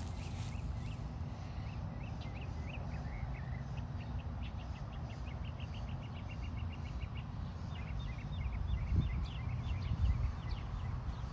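A small bird chirping in quick runs of short high notes, about eight a second, over a steady low rumble with a couple of soft thumps.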